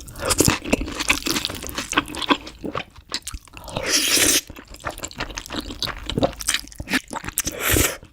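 Close-miked eating sounds: crunching and wet chewing with many quick mouth clicks, and two longer rushing sounds, one about four seconds in and one near the end.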